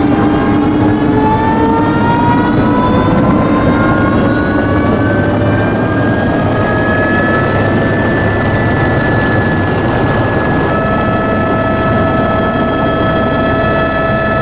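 Helicopter turbine engine and rotor noise. A whine rises in pitch over the first several seconds as the turbine spools up, then holds steady over a constant rumble.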